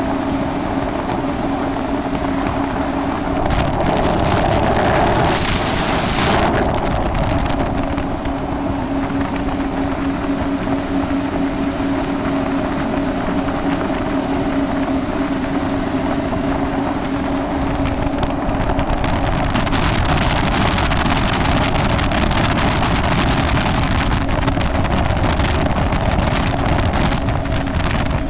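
Yamaha jet ski engine running steadily under way, with wind rushing over the microphone. A brief louder rush of noise comes about five seconds in.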